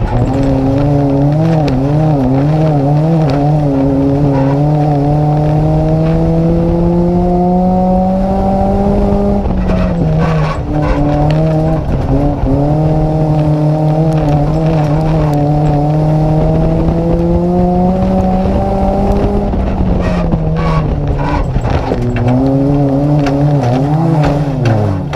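Nissan Micra race car's engine heard from inside the car, running hard at steady high revs with the pitch wavering and slowly climbing, then dropping about nine seconds in and easing off near the end. Scattered short knocks and rattles sound over it.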